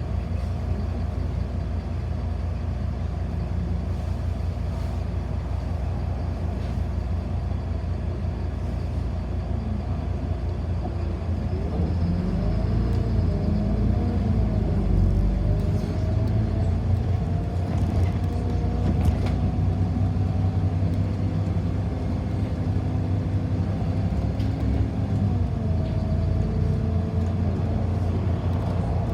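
Inside a city bus: its engine and drivetrain run with a steady low rumble. About a third of the way in the bus pulls away, and the engine note rises and shifts through gears before settling at a steady cruise.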